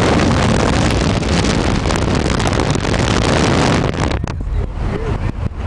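Storm wind buffeting the microphone: a loud, rushing noise that drops off sharply about four seconds in, leaving a quieter low rumble.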